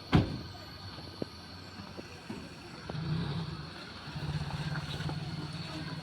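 A vehicle travelling on a bad road: a loud thump just after the start, a few light knocks, then the engine's steady low drone from about halfway through.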